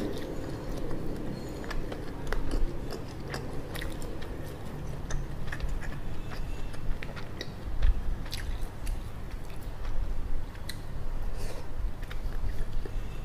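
Close-miked chewing and biting of Shin Ramyun instant noodles and mini sausage, with many small mouth clicks scattered throughout.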